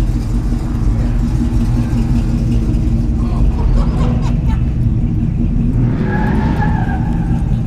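Car engine running steadily at idle, a continuous low rumble, with faint voices in the background.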